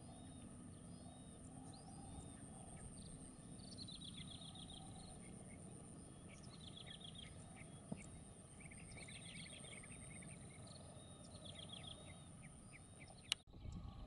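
Faint bird calls: four short, rapid series of chirping notes, over a steady low background noise and a thin, steady high tone. A sharp click near the end.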